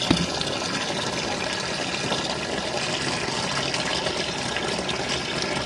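Hot water running steadily from the supply into the plastic tub of a portable twin-tub washing machine as it fills, with a single small click just after the start.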